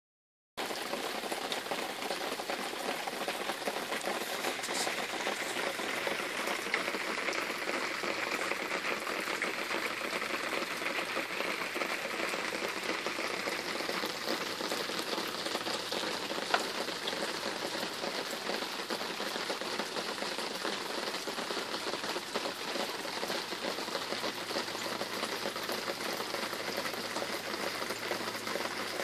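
Steady rain falling, an even hiss with one sharp tick about halfway through.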